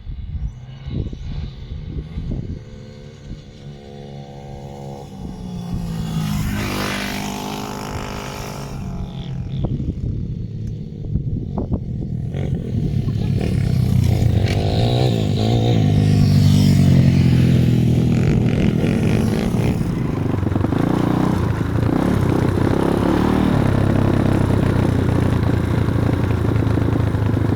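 Small pit-bike engine revving, its pitch climbing twice, then running loud and steady from about halfway through. A few knocks and clatters sound in the first seconds.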